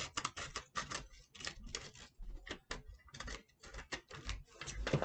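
Quick, irregular crinkling crackles of craft material being crumpled and shaped by hand.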